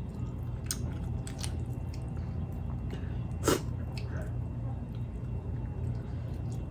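A person chewing and biting food up close: wet mouth clicks and smacks at irregular intervals, with the loudest crunch about three and a half seconds in, over a steady low hum.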